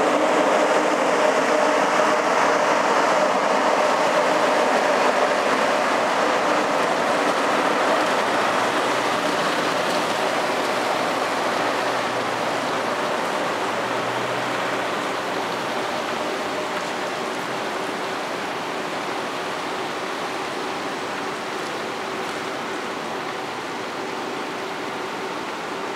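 TGV high-speed trainset passing close below, its rumbling running noise with steady tones under it, fading gradually as the train draws away.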